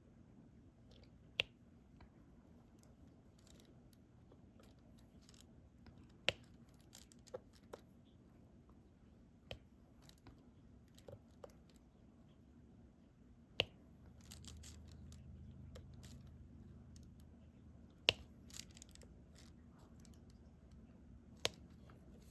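Diamond painting drills being placed with a stylus: sharp, separate plastic clicks, about nine in all, every one to four seconds, with faint scratching and rustling of the tray and canvas between them.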